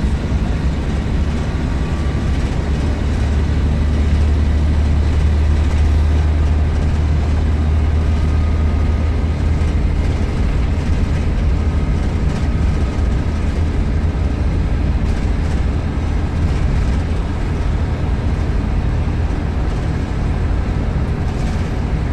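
Volvo B7RLE bus's diesel engine running under way, a deep steady drone that swells for a few seconds about four seconds in, with a faint high turbocharger whistle above it.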